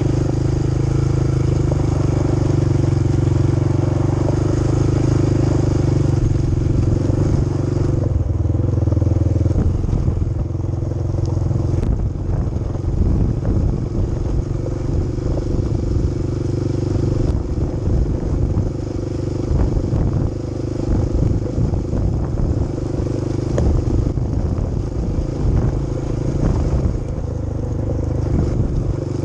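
Quad bike engine running steadily while riding, with rattling and knocks over a rough road becoming more frequent from about twelve seconds in.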